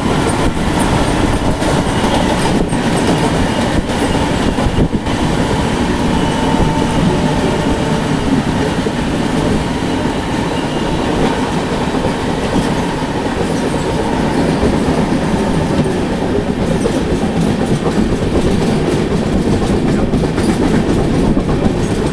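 Duronto Express passenger train running along the track: a steady, loud rumble of wheels on rails.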